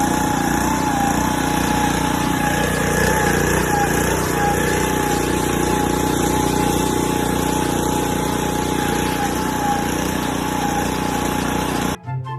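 A motor or small engine running steadily, with a steady whine that wobbles slightly in pitch. It cuts off suddenly near the end.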